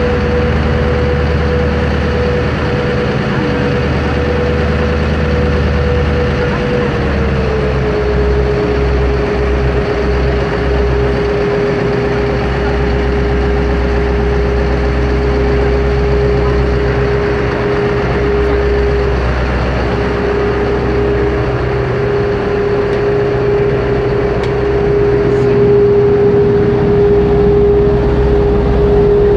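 Ferry engine running steadily. Its droning tone steps down slightly in pitch about seven seconds in.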